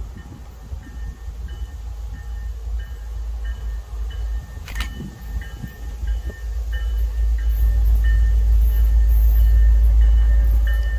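A passing train's low rumble, growing louder through the second half.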